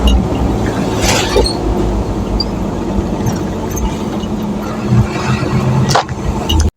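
Steady low rumble of a vehicle's engine and road noise while driving, with a couple of brief clicks; the sound cuts off abruptly near the end.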